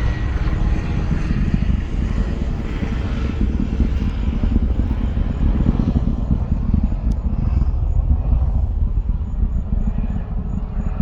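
Low, rough rumble of a SpaceX Falcon 9 rocket's engines climbing after liftoff, heard from miles away, easing slightly near the end.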